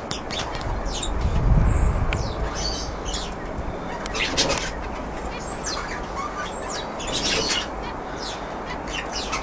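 Canaries chirping in short notes and quick rising and falling slides over a steady hiss, with a low rumble about one and a half seconds in.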